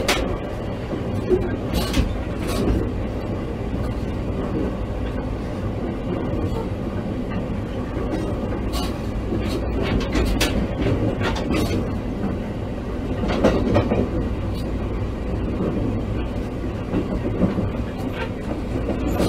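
Running sound heard inside a JR East E653-1100 series electric train's motor car: a steady rumble of wheels on rail, with a few sharp clicks of the wheels passing over rail joints.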